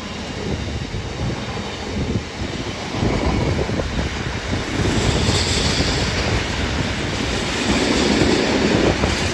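Bogie oil tank wagons of a long freight train rolling past, their wheels rumbling and clattering on the rails, getting louder from about three seconds in.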